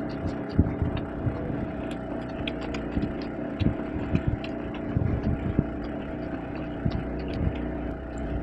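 Eating by hand: short clicks and soft knocks of fingers working fish curry and rice on a plate, and chewing, over a steady mechanical hum.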